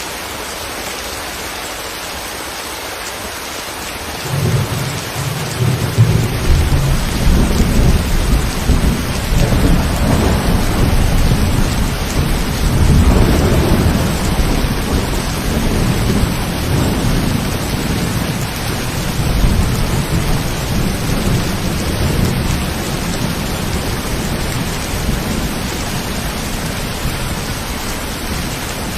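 Steady rain falling, with a long roll of thunder. The thunder comes in about four seconds in, is loudest in the middle and slowly dies away.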